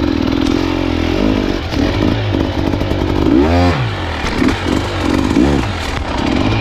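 Dirt bike engine revving up and down on a slow, tight trail section: a steady note for the first second, then repeated short throttle blips, the sharpest about three and a half seconds in and another about five and a half seconds in.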